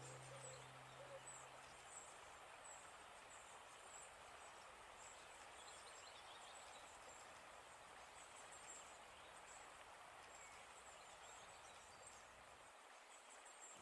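Near silence: faint outdoor ambience with faint high chirping.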